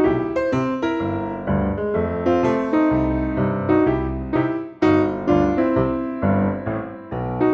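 Background music: piano playing a melody of struck notes, about two or three a second.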